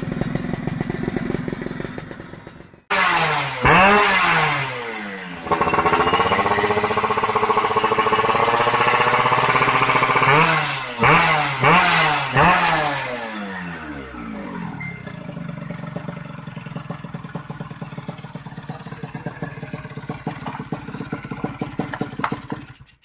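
Yamaha F1Z-R two-stroke motorcycle engine through an aftermarket racing exhaust, idling, then revved up and down, held at high revs for about five seconds, blipped a few more times, and settling back to a steady idle.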